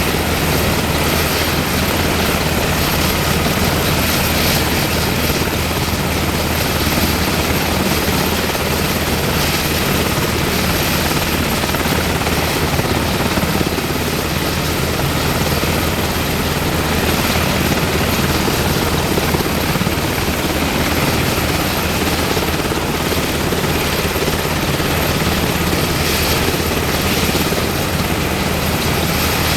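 UH-60M Black Hawk helicopter with its twin turboshaft engines and rotors running steadily, a thin high turbine whine held over the dense rotor and engine noise.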